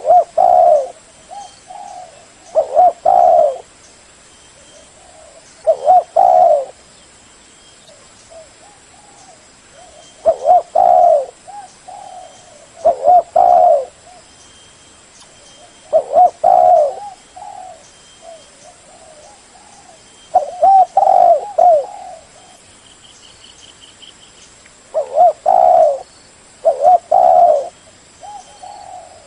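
Spotted dove cooing: short phrases of a few low, mellow coos, repeated every few seconds.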